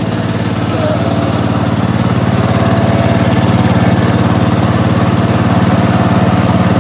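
Gravely 812 walk-behind tractor engine running steadily at a fast idle, getting a little louder about two seconds in.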